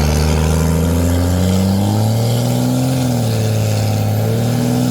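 A vehicle engine held at high revs during a tire-spinning burnout, its pitch climbing about two seconds in, wavering, then rising again near the end.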